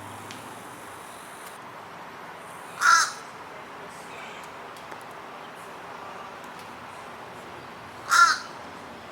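A bird calling twice, two short loud harsh calls about five seconds apart, over a steady faint background hiss.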